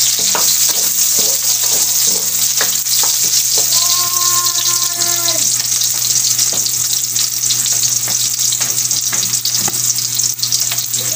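Sliced onions sizzling steadily in hot oil in a steel wok, with a spatula clicking and scraping against the pan now and then.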